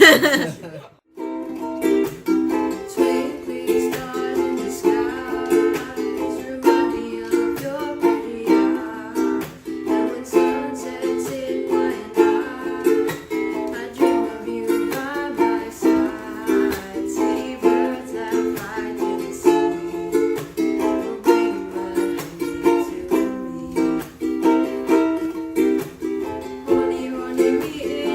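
Ukulele strummed in a steady rhythm, playing a repeating chord pattern. There is a brief gap about a second in, and then the strumming runs on evenly.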